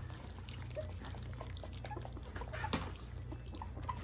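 Three-week-old puppies lapping and smacking at wet mush, with a few brief faint whimpers, over a steady low hum.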